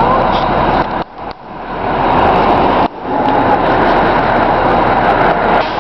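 A 1999 Freightliner fire pumper's diesel engine running with road noise, heard as a loud, rough rush. It dips out briefly about a second in and again near three seconds.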